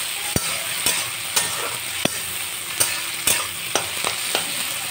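Chopped onion, green chilli and tomato frying in mustard oil in a metal kadhai: a steady sizzle, with a spatula scraping and knocking against the pan about every half second as it is stirred.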